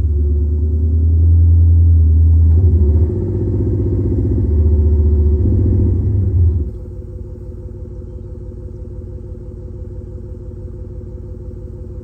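Electronic exhaust speakers on a Toyota Prius PHV playing a simulated Mercedes-AMG S63 exhaust note over the running hybrid engine. A loud, deep revving rumble that rises and falls, then drops suddenly after about six and a half seconds to a quieter steady idle-like rumble.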